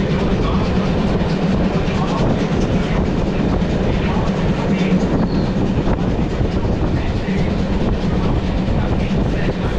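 Historic passenger train running along the track: a steady rumble of the coaches' wheels on the rails, with rail clatter.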